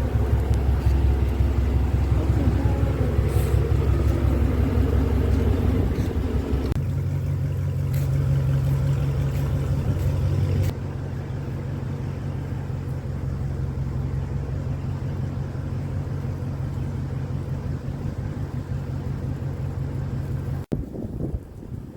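Steady low rumble of a car on the move, heard from inside the vehicle. It changes suddenly a few times and drops away sharply near the end.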